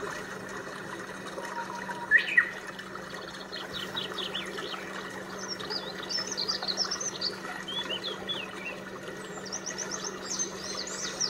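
Small birds chirping and twittering in quick, bending high notes, one call about two seconds in and then a busier run of song, over a steady rushing hiss and a low hum.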